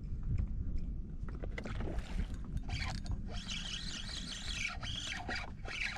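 Wind buffeting the microphone with a steady low rumble on a boat on open water. A rushing hiss comes and goes over it from about a second and a half in.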